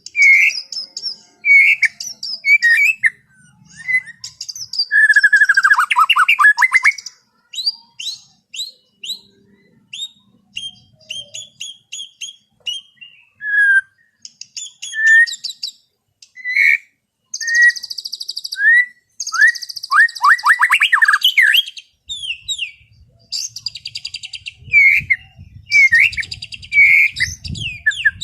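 White-rumped shama singing a loose, relaxed song: varied clear whistles, quick runs of down-slurred notes and buzzy high trills, broken by short pauses.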